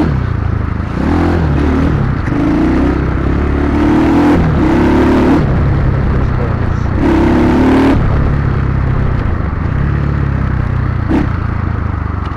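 Dirt bike engine running as the bike is ridden, its pitch rising and falling several times with the throttle. A short sharp knock near the end.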